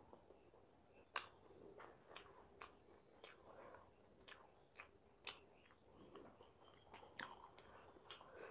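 Faint chewing of a fried snack, close to the microphone, with irregular wet mouth clicks and smacks, the sharpest about a second in.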